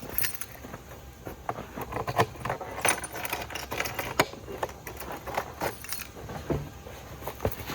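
Irregular clinks and rattles of small metal objects being handled.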